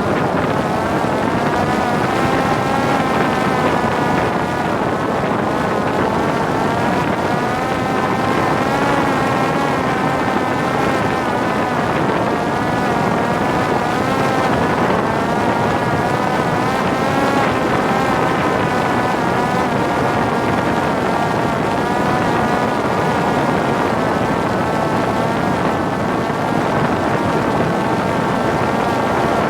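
Parrot Disco fixed-wing drone's electric pusher propeller whining steadily in flight, its pitch wavering a little with throttle, over wind rushing across the onboard camera's microphone.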